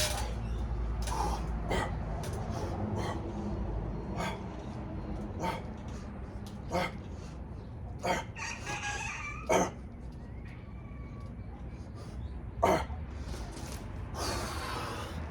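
A rooster crowing once, about eight seconds in, over scattered sharp knocks and a low steady rumble.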